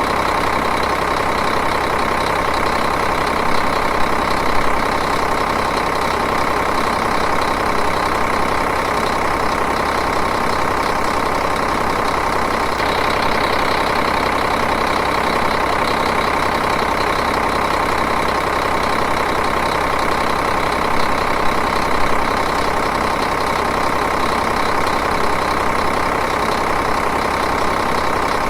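Diesel engine idling with an even, steady running sound.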